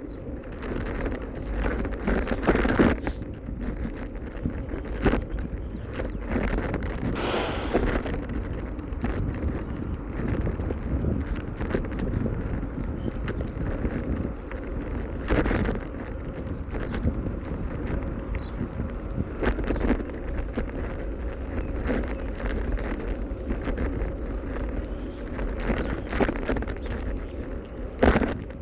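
Wind buffeting the microphone of a camera on a moving bicycle, a steady low rumble, with occasional sharp knocks and rattles.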